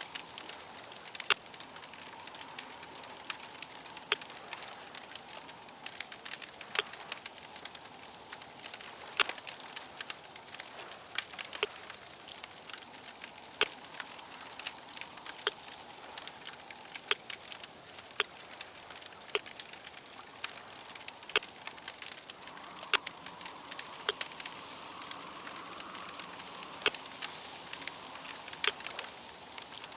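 Crackling fire: a steady soft hiss with frequent irregular sharp pops and snaps, the hiss swelling a little in the second half.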